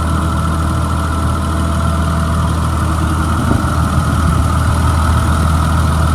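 Caterpillar 3126 diesel engine of a Blue Bird school bus idling steadily, with the engine warmed up. It sounds healthy, with no knock, its AC compressor and accessory belts off.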